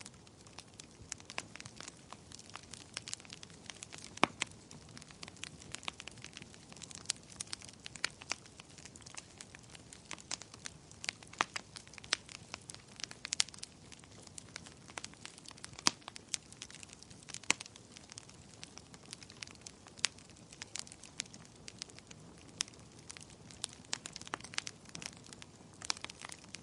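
Wood fire burning in a fireplace: irregular sharp crackles and pops over a soft steady hiss.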